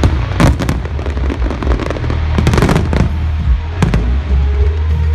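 Fireworks going off: a series of sharp bangs, some coming in quick crackling clusters, over music with a heavy low bass.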